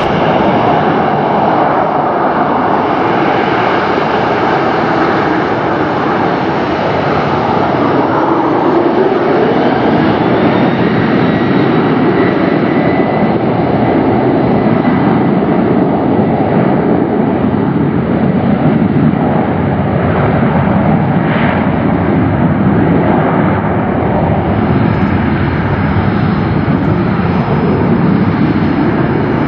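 Jet airliner engines at takeoff thrust: a loud, steady roar, with tones in it that sweep slowly as the plane moves.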